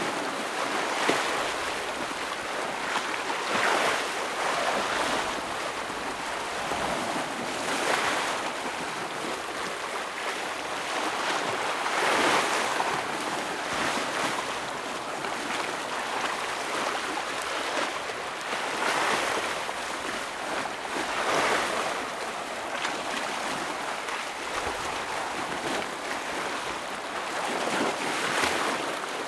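Ocean waves breaking on a rocky shore, a steady wash of surf that swells with a louder crash every few seconds.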